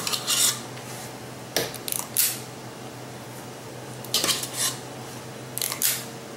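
Metal batter scoop clinking and scraping against a metal muffin pan as batter is portioned into the cups, in four short bursts about a second and a half apart. A steady low hum runs underneath.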